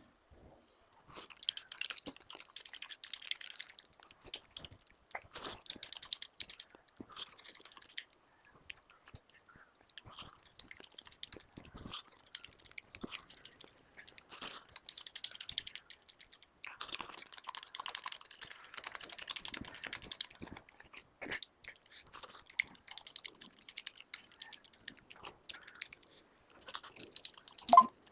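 Close-up eating sounds: a person chewing soft food, wet mouth clicks coming in bursts of a few seconds with short pauses between.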